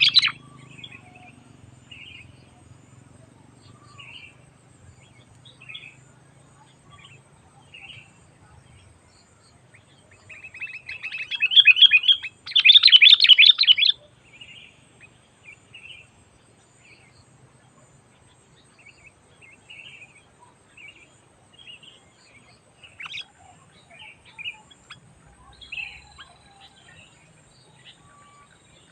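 Sooty-headed bulbul calling: scattered faint chirps throughout, with a loud run of rapid, chattering notes in two bursts about halfway through.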